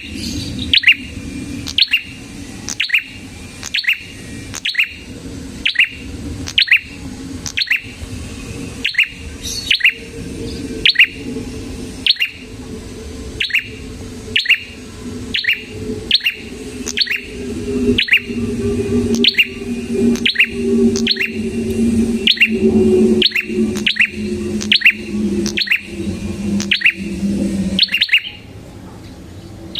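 Prenjak (prinia) calling: a long run of sharp, high chirps, about two a second, with a short break near the end. A low steady hum runs underneath and stops near the end.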